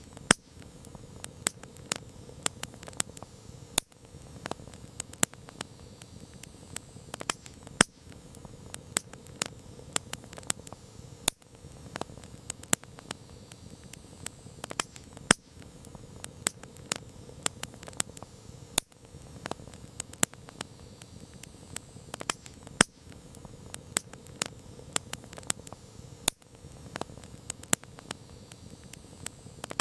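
Wood campfire crackling: irregular sharp pops and snaps, some much louder than others, over a soft steady hiss of the flames.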